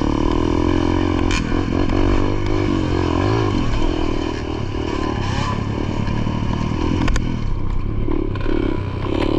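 Dirt bike engine running and revving, its pitch rising and falling, with a couple of sharp knocks.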